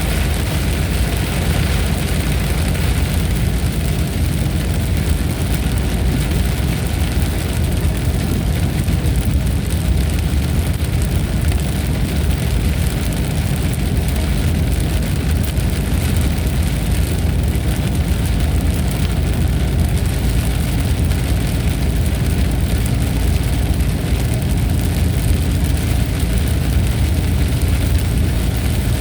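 Thunderstorm ambience: a steady, unbroken deep rumble with a hiss of rain above it, with no separate thunderclaps.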